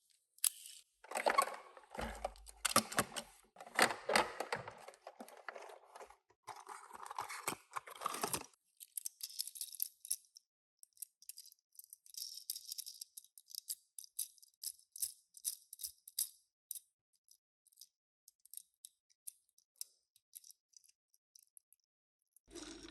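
Hands opening and handling the packaging of a Tomica die-cast minicar: a dense crinkling and tearing of cardboard and plastic for the first eight seconds or so. Then come many light, sharp clicks and rattles of the small toy being handled, thinning out toward the end.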